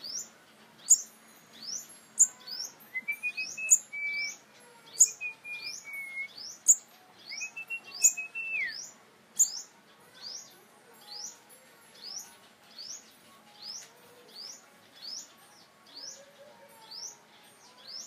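A small yellow-bellied songbird repeats thin, high chirps that slide downward, steadily at about three every two seconds. A person whistles a short, clear phrase a few seconds in and again about eight seconds in.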